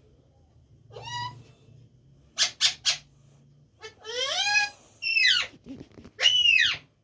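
Pet parrot calling: a short rising call about a second in, three quick chirps around two and a half seconds, a longer rising call near four seconds, then two falling calls near the end.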